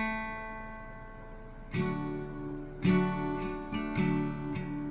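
Guitar played: a picked note rings out and fades, then chords are strummed about six times in a loose rhythm from a little under two seconds in.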